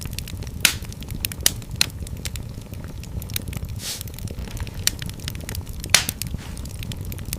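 Wood fire in a fireplace crackling over a steady low rumble of the flames, with sharp pops, the loudest about a second in and near the end.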